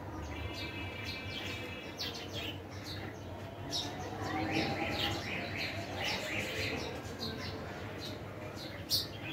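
Small birds chirping in short, repeated calls at irregular intervals, with a sharper chirp near the end.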